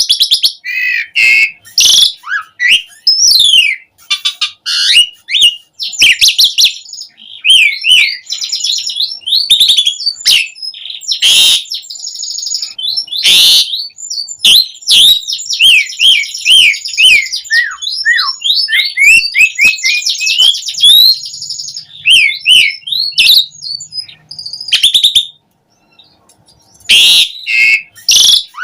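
Asian pied starling (jalak suren) in full, rapid song: a dense, varied stream of quick falling whistles, sharp clicks and rasping chatter notes. It breaks off for about a second near the end, then resumes.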